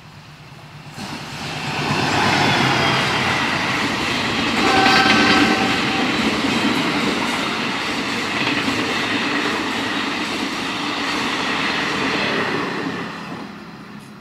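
A passenger express train hauled by a CC 206 diesel-electric locomotive passing through the station at speed: the rumble and wheel clatter build up about a second in, hold steady, and fade near the end. A short horn blast sounds about five seconds in.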